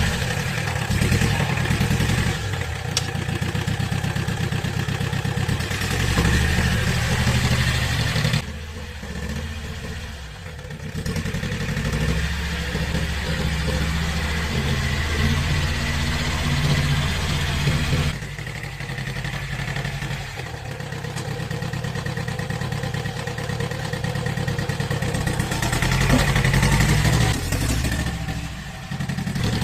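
Single-cylinder diesel engine of an old tractor running, its sound dropping and rising again a few times.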